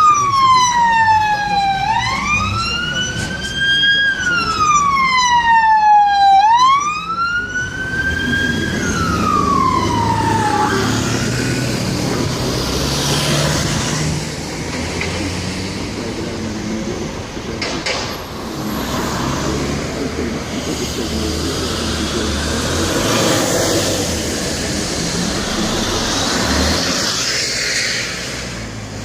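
Emergency vehicle siren wailing in slow rising and falling sweeps, about two and a half cycles, ending on a falling sweep about ten seconds in. Busy road traffic noise follows.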